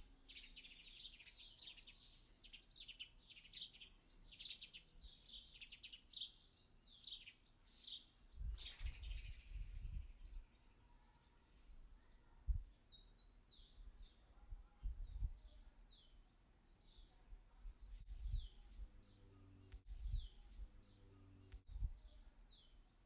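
Birds chirping: a faint, dense run of short, high, falling chirps, with a few low thumps scattered through.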